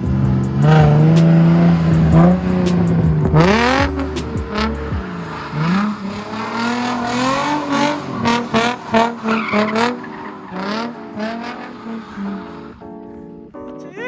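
Car engine revving up and down again and again while its tyres squeal in a drift, loudest in the first few seconds and tailing off near the end.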